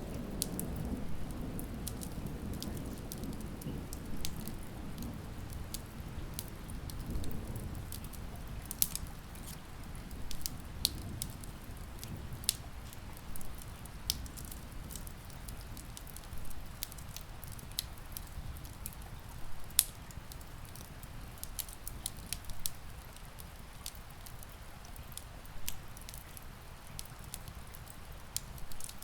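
Steady rain with a wood fire crackling: sharp pops and snaps scattered irregularly throughout. A low rumble of distant thunder fades out over the first eight seconds or so.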